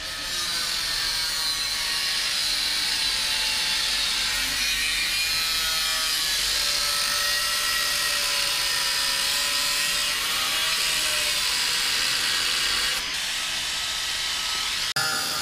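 Angle grinder running against steel box-section, throwing sparks, with a steady high hiss and a whine that wavers in pitch as the disc is pressed into the metal. The sound dips briefly near the end.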